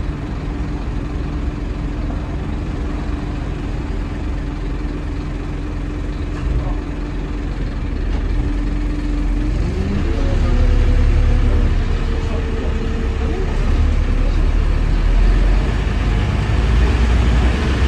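Scania N230UD double-decker bus engine idling steadily, then about halfway through the engine note rises and gets louder as the engine is put under load.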